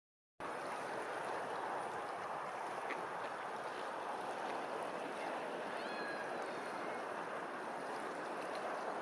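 Steady rush of running water, starting about half a second in, with a few faint high bird chirps around six seconds in.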